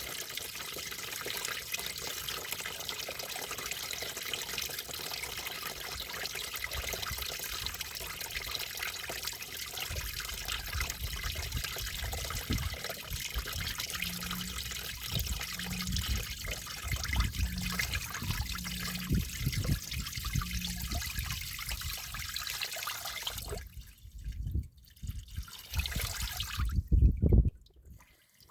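Water draining out of a Massey Ferguson 35's crankcase drain, a steady stream splashing into a catch pan. The crankcase is full of water where oil should be. Wind gusts rumble on the microphone, and the stream drops away near the end.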